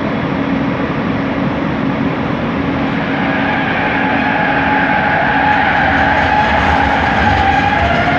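Bombardier Innovia ART 200 light-metro train running, with steady rolling noise and the whine of its linear induction motor drive, which comes in about three seconds in and rises slowly in pitch as the train picks up speed.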